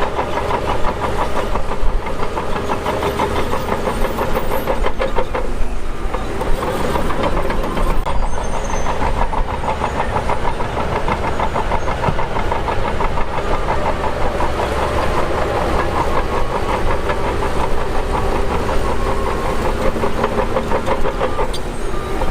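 Shantui DH17 crawler bulldozer working, its diesel engine running steadily with a continuous rapid mechanical clatter.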